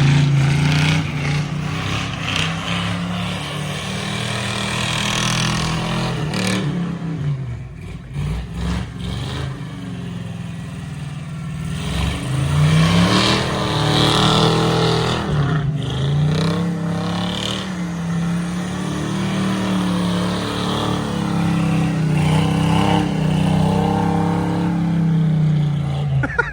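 1989 Chevrolet K5 Blazer engine revving up and falling back several times as the truck is driven around through snow.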